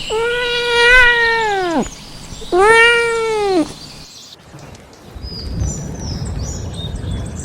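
Domestic cat giving two long, drawn-out meows, each rising and then falling in pitch. About four seconds in, the sound changes abruptly to a low rumbling background with a few faint high chirps.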